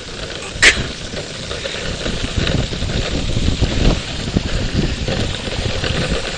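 Steady rushing of a river in flood, its high muddy water running fast, with wind buffeting the microphone. A short sharp click just under a second in.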